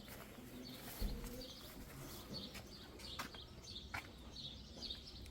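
Small birds chirping repeatedly in the background, with a soft low thump about a second in and a few light clicks later on.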